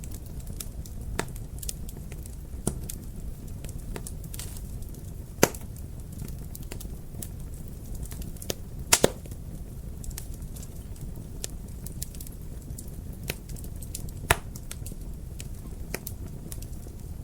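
Wood fire crackling, with irregular small snaps over a low steady rumble and a few louder pops: one about five seconds in, a quick double pop about nine seconds in, and another near the fourteen-second mark.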